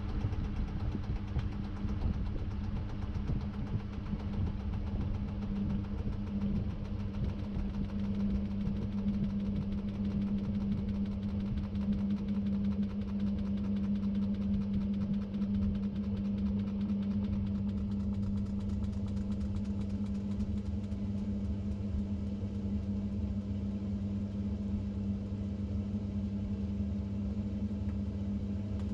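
Samsung 6.5kg top-load washing machine running, heard from inside the drum: a steady motor hum with a continuous churning noise.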